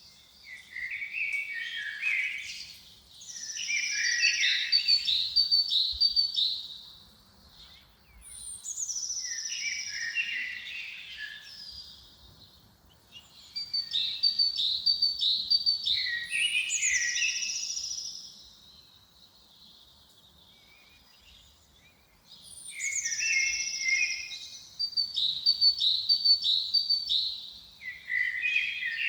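A songbird singing the same few-second phrase again and again: a high thin note that slides down, then a run of quick lower notes. The phrases come every few seconds, with a longer pause about two-thirds of the way through.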